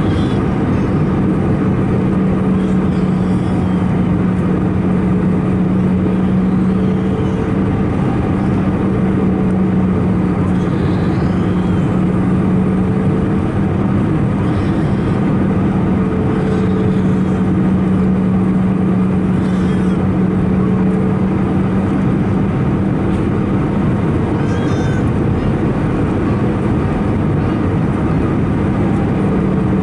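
Steady cabin noise of an Airbus A319-111 in flight: its CFM56 jet engines and the airflow make a constant rushing drone with a low steady hum underneath.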